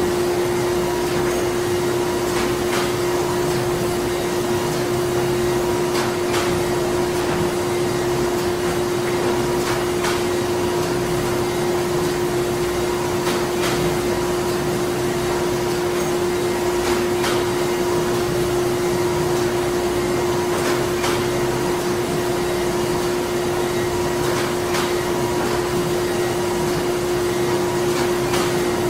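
Printing-plant machinery running steadily: a loud, constant hum with one strong held tone, and faint clicks every few seconds.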